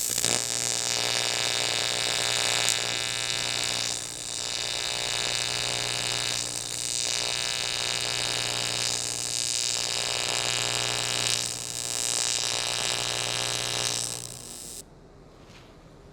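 Electric welding arc on an aluminium fuel tank: a steady buzz with hiss that starts abruptly, dips slightly four or five times as the weld goes on, and cuts off after about fifteen seconds.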